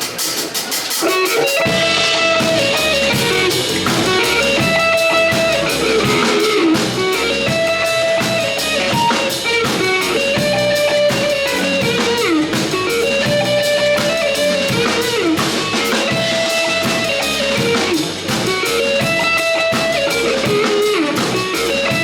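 Live band playing psychedelic cumbia: a repeating electric guitar melody over strummed guitar, bass and drums, with the bass and full band coming in about a second and a half in.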